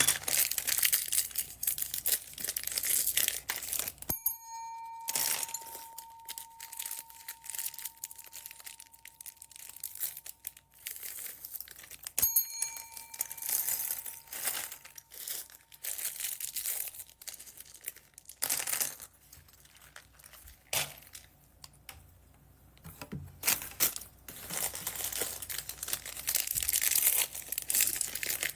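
Plastic bead bags crinkling and rustling as they are handled, with many small sharp clicks. A bell-like ding sounds twice, about four and twelve seconds in, its ring lingering for several seconds.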